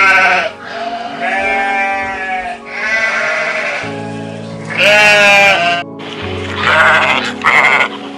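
Sheep bleating repeatedly, about six wavering bleats, the loudest about five seconds in, over background music.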